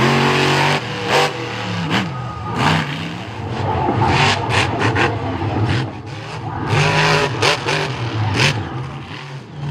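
Monster truck engine revving hard, its pitch climbing and falling again and again, with many sharp cracks and bangs mixed in.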